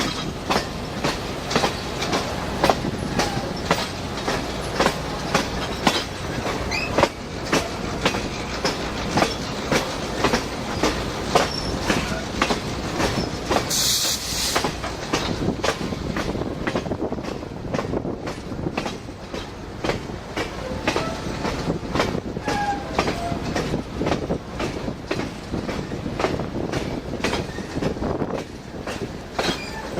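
Passenger train rolling along, its wheels clicking over rail joints in a steady rhythm over a continuous rumble, with a brief hiss about halfway through and faint wheel squeals.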